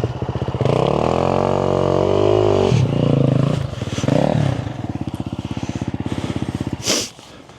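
Motorcycle engine under throttle on a trail, its pitch rising and falling as it pulls away and shifts. A couple of throttle blips follow, then a steady pulsing run. A sharp burst of noise comes just before the engine sound falls away near the end.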